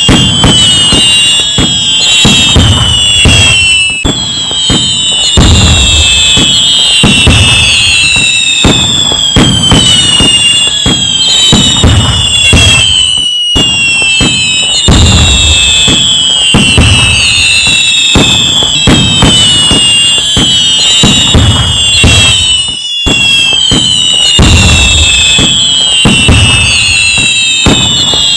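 Loud, dense fireworks barrage: overlapping whistling shells whose whistles fall in pitch every couple of seconds, over continuous crackling and low booms.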